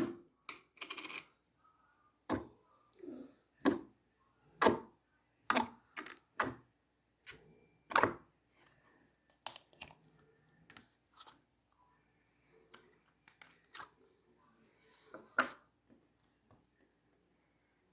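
Clear slime being pressed and worked by hand, giving sharp irregular clicks and pops. They come about once a second at first, then grow fainter and sparser, with one louder pop near the end.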